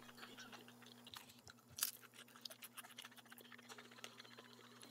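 A person quietly chewing boneless spicy fried chicken: soft crunching and wet mouth sounds, with one sharper click a little under two seconds in.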